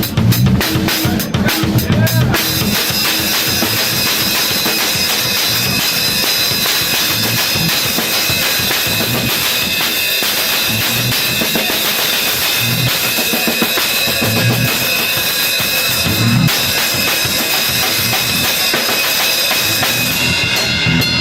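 A drum kit played solo: a busy run of drum and cymbal hits for about the first two seconds, then a steady cymbal wash over repeated bass drum hits.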